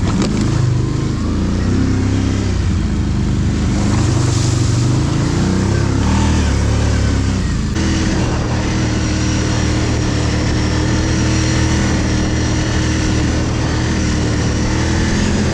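ATV engine running. Its pitch rises and falls with the throttle for the first several seconds, then changes abruptly about eight seconds in and holds at a steady pitch.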